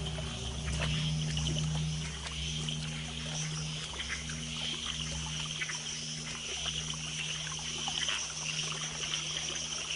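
Night rainforest ambience: insects buzzing and chirping at high pitch, thick with small crackles, over a low steady hum.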